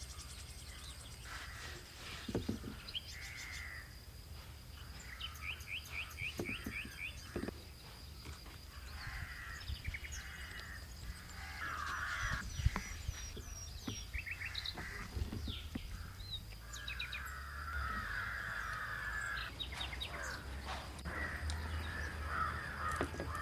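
Outdoor birds calling and chirping on and off, many short calls and trills, over a steady thin high-pitched tone and a low background hum.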